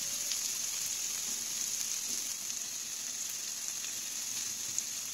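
Garlic, onion and grilled eggplant frying in hot oil in a pan, a steady sizzle.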